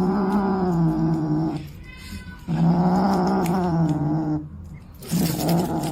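A pet animal's long drawn-out calls on a low, slightly wavering pitch. There are two calls of about two seconds each, and a shorter third one near the end.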